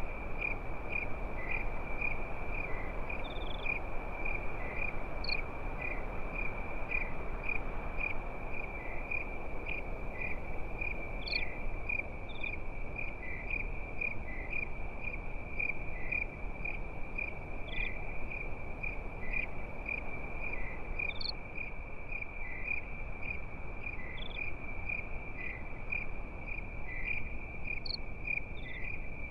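Crickets chirping at night: an even, high-pitched chirp repeated two or three times a second, with a few higher chirps every few seconds, over a steady low hiss.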